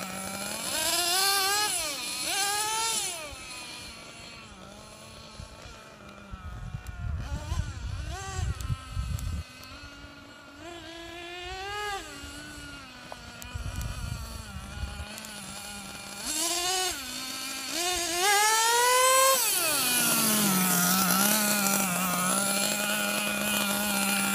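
Small two-stroke gas engine of a Losi XXL-2 RC monster truck, idling and revving up and down in short bursts, fainter for a stretch in the middle. Near the end it holds one long high rev, then drops back to a steady idle.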